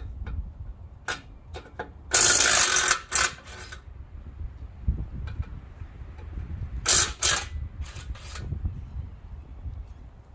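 Metal clanking and rattling: a few light clicks, then a loud metallic rattle lasting over a second from about two seconds in, and two shorter rattles about seven and eight seconds in.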